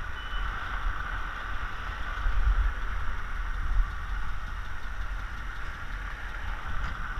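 Motor vehicle engine idling, a steady low rumble with traffic noise.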